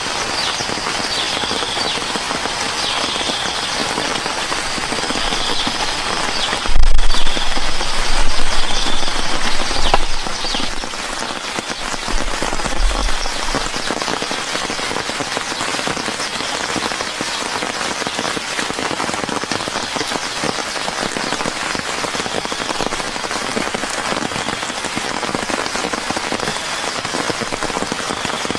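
Steady rain falling hard. Loud low rumbling bumps come about a quarter of the way in and last several seconds. A faint high call repeats about once a second through the first part.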